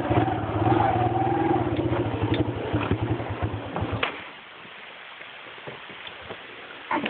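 A vehicle engine running at low speed with a rapid, even pulse, which stops abruptly about four seconds in. After that only faint background noise with a few light clicks remains, and there is one short sharp sound near the end.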